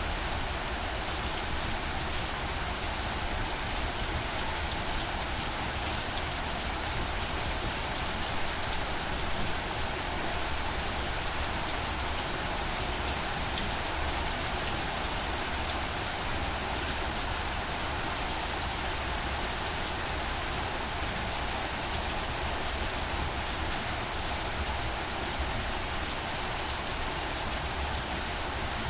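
Steady rain falling, an even, dense hiss of many drops that holds without a break.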